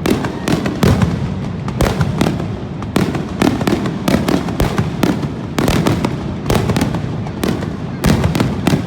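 Fireworks show: aerial shells bursting in quick overlapping volleys, several sharp bangs a second over a continuous rumble, as in a finale barrage.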